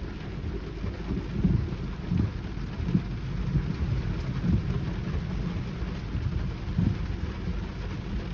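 Heavy rain pouring steadily, under a low rumble that swells and fades every second or so.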